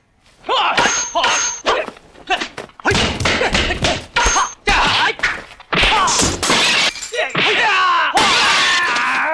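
Kung fu film fight sound effects: a rapid run of sharp hits from wooden staffs and blows, mixed with fighters' shouts and grunts. The yelling is longest near the end.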